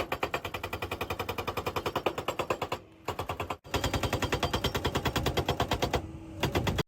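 Excavator-mounted hydraulic breaker hammering rock: a rapid, even train of blows at about ten a second, with a brief break about three seconds in.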